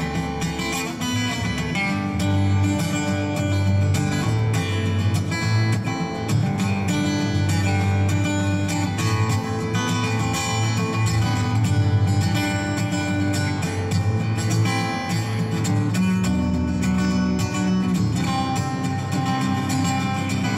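Acoustic guitar strummed through an instrumental passage of a live folk song, with no singing.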